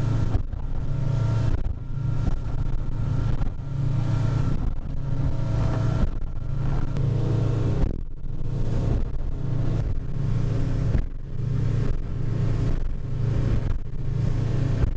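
Boat's outboard motor running at cruising speed, a steady low drone that swells and dips about once a second as the hull rides over light chop.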